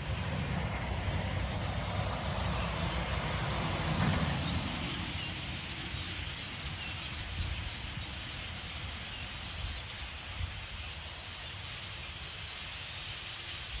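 Outdoor background noise: a low rumble under a steady hiss, swelling to its loudest about four seconds in and easing off after.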